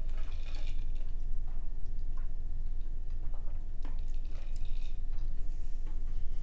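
Close-miked chewing and wet mouth sounds, with scattered small clicks and squishes, over a steady low hum.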